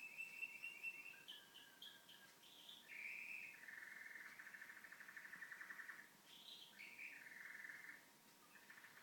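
Domestic canary singing faintly: a run of varied phrases, short rising chirps and fast rattling trills, with the longest trill a couple of seconds long in the middle.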